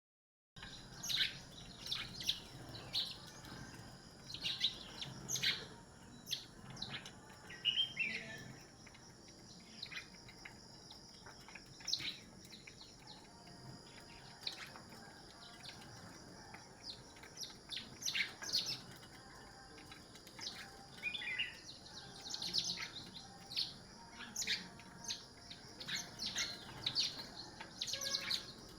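Birds chirping and calling, many short sharp chirps one after another, with a steady faint high whine underneath.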